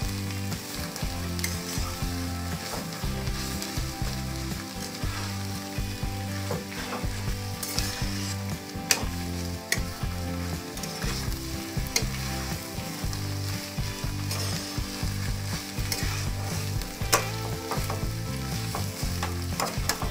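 Shredded cabbage and egg sizzling in a hot wok while a metal spatula stirs and tosses it. The spatula scrapes the pan and knocks against it with sharp clicks now and then.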